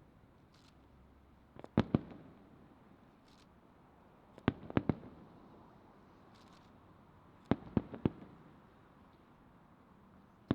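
Aerial firework shells bursting: clusters of two or three sharp booms, about one cluster every three seconds.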